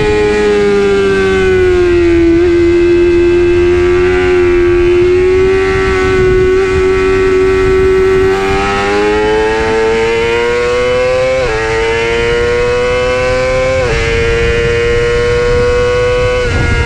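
Honda CBR600RR inline-four engine running hard at a high, steady pitch. The pitch sinks over the first two seconds, holds, then climbs slowly, with two sudden jumps up about eleven and fourteen seconds in.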